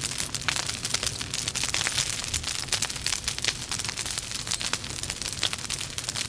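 Logs burning in a fireplace, crackling and popping many times a second over a steady hiss.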